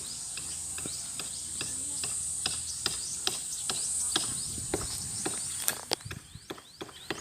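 Insects keep up a steady high-pitched drone, with a run of sharp regular clicks, about two to three a second, on top.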